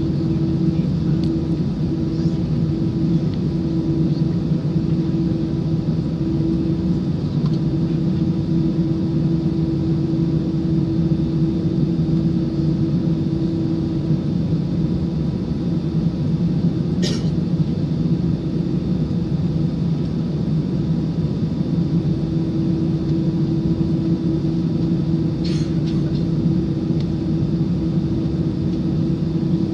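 Airbus A319 airliner's jet engines running, a steady rumble with a constant low hum and no change in pitch. Two brief faint high-pitched sounds come about halfway through and again near the end.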